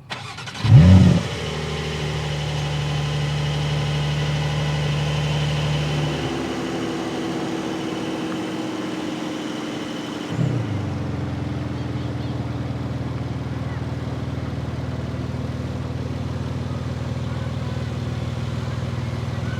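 Porsche 911 Carrera T's twin-turbo 3.0-litre flat-six cranking and firing up with a loud rev flare about a second in, then settling into a steady raised idle. About ten seconds in there is a short blip, and it carries on idling steadily at a slightly lower pitch.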